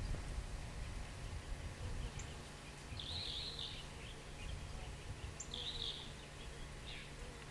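Outdoor background with a steady low rumble, and a bird chirping in two short bursts, about three seconds in and again near six seconds.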